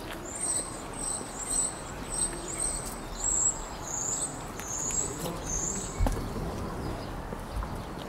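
A small bird calling a series of about nine short, high chirps, evenly spaced about half a second apart, that stop about six seconds in. A dull thump about six seconds in.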